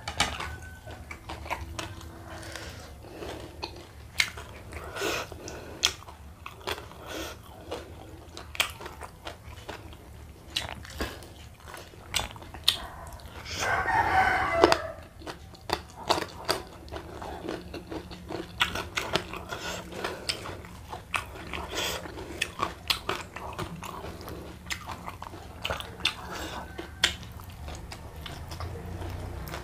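Chewing and lip-smacking of a man eating rice, fried fish and sambal with his fingers, with many small clicks and taps. About halfway through, a rooster crows in the background for a second or two.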